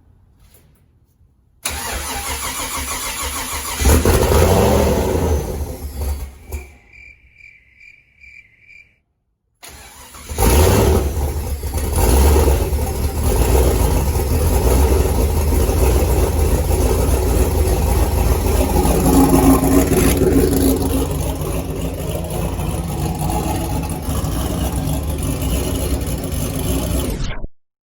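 Turbocharged Gen 3 4.8 L LS V8 being cranked on its first start-up after a swap, firing and running unevenly in two attempts separated by a cut. Between the attempts come five short electronic beeps in quick succession.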